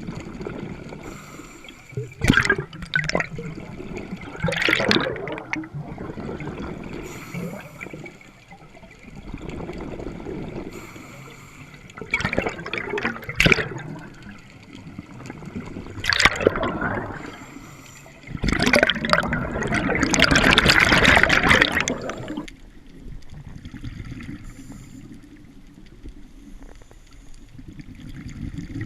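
Scuba diver breathing through a regulator underwater: bursts of exhaled bubbles gurgling every few seconds, the longest lasting about four seconds about two thirds of the way in, with a quieter watery wash between breaths.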